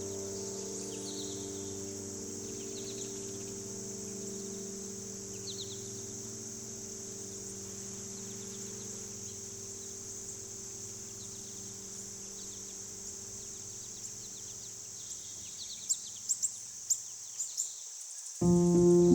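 Forest ambience: a steady high insect drone like crickets, with a short chirp repeating every couple of seconds, under the fading tail of sustained low music notes. A few sharp clicks come near the end, and a new piece of music with sustained low notes starts just before the end.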